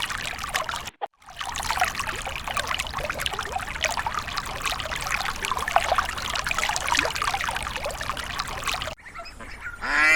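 Water splashing and trickling: a dense, crackly run of small splashes, broken by a brief gap about a second in and falling away to a quiet background near the end.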